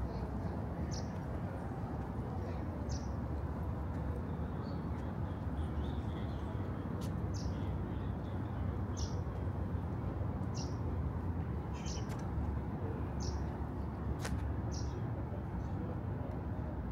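A bird repeating a short, high chirp that falls in pitch, about every one and a half to two seconds, over a steady low outdoor rumble.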